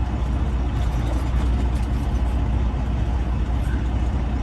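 Diesel engine of a Freightliner Classic XL semi truck running steadily, heard as a low, even rumble inside the cab.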